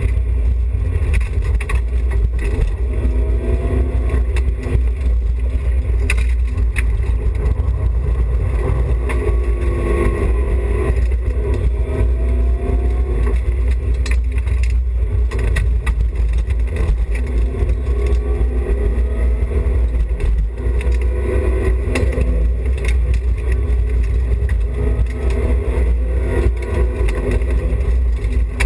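BMW E30 316i rally car's four-cylinder engine at full effort, its pitch rising and falling every few seconds as the driver works it through the gears, over a heavy low rumble with scattered knocks and clatters.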